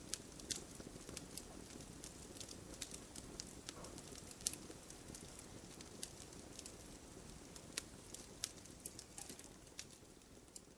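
Wood bonfire burning: a steady low rustle of flames with frequent, irregular sharp crackles and pops from the burning wood.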